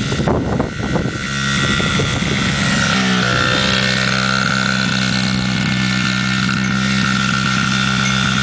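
A Honda CRF50 dirt bike's small single-cylinder four-stroke engine running at a steady, even speed. Its note shifts about three seconds in, then holds steady again.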